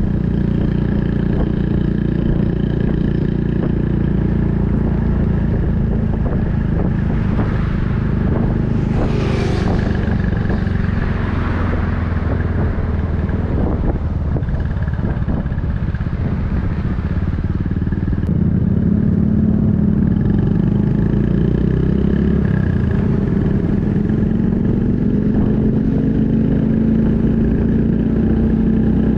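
Honda Super Cub 110's single-cylinder engine running through an aftermarket Kitaco mini caburton muffler while riding, a loud steady exhaust note. A rushing noise swells and fades about a third of the way in, and past the halfway mark the engine gets louder and its note climbs as the bike accelerates.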